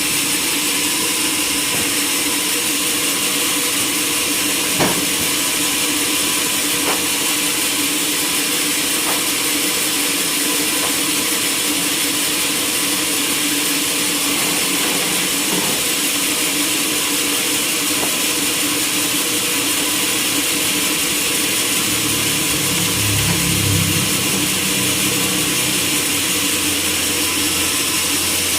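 Sawmill machinery running steadily with a loud, even hiss and hum, a few light knocks along the way, and a deeper rumble joining in near the end.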